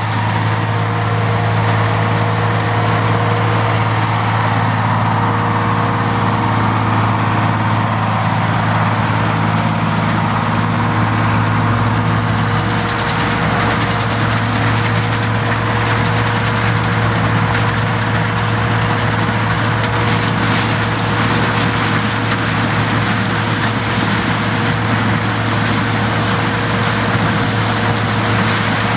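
John Deere 105 combine running steadily while harvesting corn: a constant engine drone with a steady whine above it and the rush of the threshing machinery.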